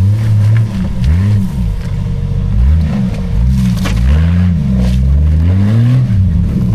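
Old Jeep Cherokee's engine revving hard on an off-road course, its pitch rising and falling about six times in quick succession as the throttle is worked, with a few short scrapes or knocks about four and five seconds in.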